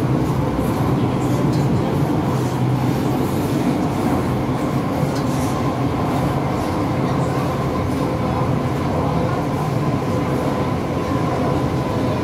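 MTR M-Train electric metro train running steadily: a continuous rumble of wheels on rail, with a faint steady tone above it.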